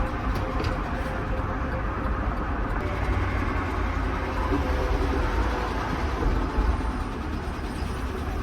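GMC Yukon XL's 5.3-litre V8 running steadily under way, with engine and road noise; the engine has a rod knock and is making bad noises.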